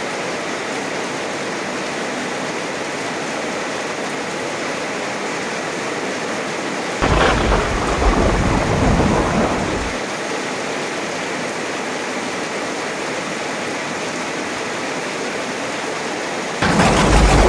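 Steady heavy rain, with thunder breaking in suddenly about seven seconds in and rumbling for about three seconds. A second thunderclap starts near the end.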